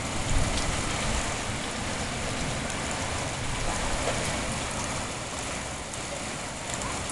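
Steady rain falling, an ordinary rain rather than a downpour, as an even hiss with no thunder.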